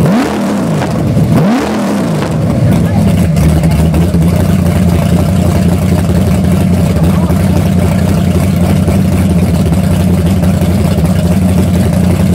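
Car engine revved twice in quick throttle blips, each rising and falling in pitch, then running at a steady idle.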